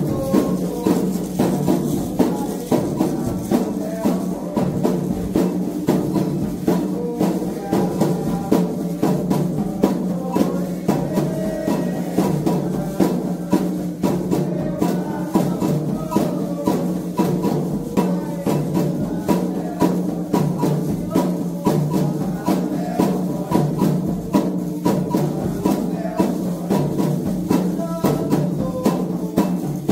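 Candomblé ritual music: atabaque hand drums and percussion keep up a steady, driving rhythm while voices sing a chant together.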